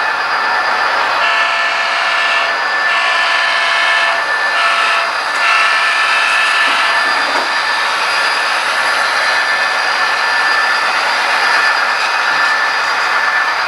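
Model train running with a steady mechanical hum and hiss. About a second in, a horn sounds two long blasts, a short one and a long one: the grade-crossing signal.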